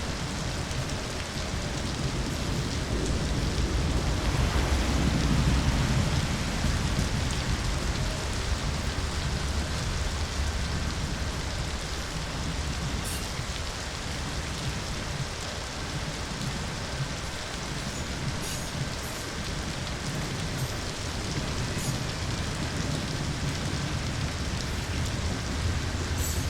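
Steady rain falling, with a low rumble that swells about four to seven seconds in and again near the end.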